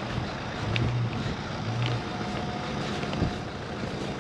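Outdoor street ambience: a steady rush of wind on the microphone, with a low engine-like hum that comes and goes and a few faint ticks.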